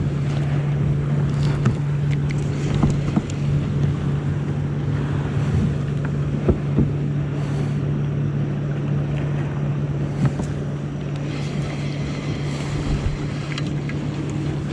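Steady low drone of a motorboat engine running on the lake, with wind on the microphone and water noise.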